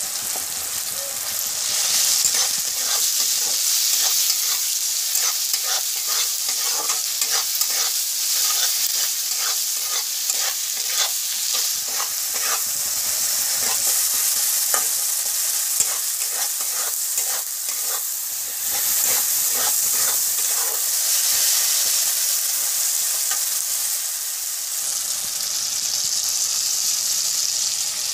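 Chopped onions and tomatoes sizzling in hot oil in a metal kadai, with a steady hiss, while a flat metal spatula stirs them, scraping and clicking against the pan many times.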